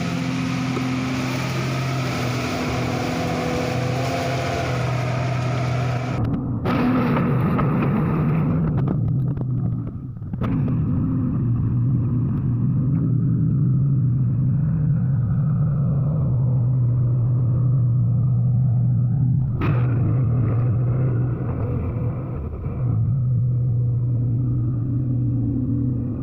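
Komatsu PC200-5 excavator's diesel engine running steadily, with a harsh hiss over it for the first six seconds and brief dips in level about ten seconds in and again near the end.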